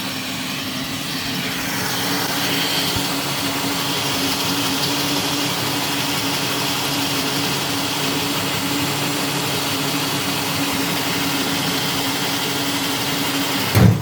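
Electric drill running steadily at full speed, drilling out a fender bolt. It stops abruptly near the end with a short knock.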